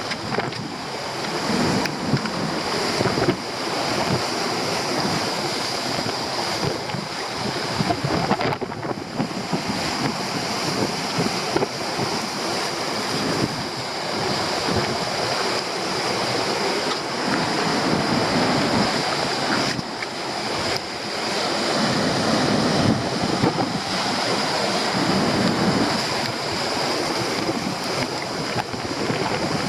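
Stormy sea surf crashing continuously, with strong wind buffeting the microphone.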